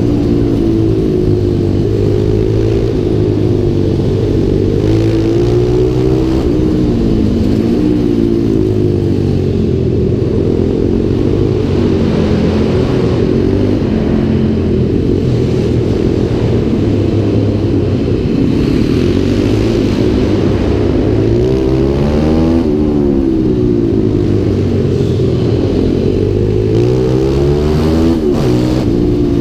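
Onboard sound of a YX140 pit bike's single-cylinder four-stroke engine being ridden hard, its revs climbing and dropping again and again between corners and short straights.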